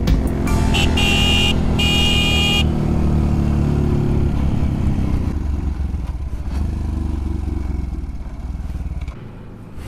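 Single-cylinder four-stroke engine of a 2008 Beta RR 125 motard running under way, then fading and dropping off over the last few seconds as the bike slows: the tank is running dry and the bike is about to go onto reserve. A high tone sounds twice in the first three seconds.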